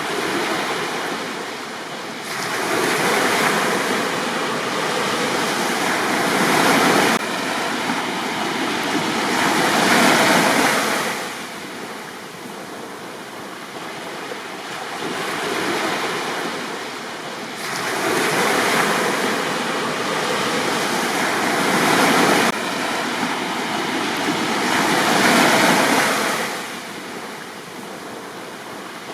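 Gentle sea waves breaking on a beach and washing back, the surf swelling and ebbing in surges every several seconds.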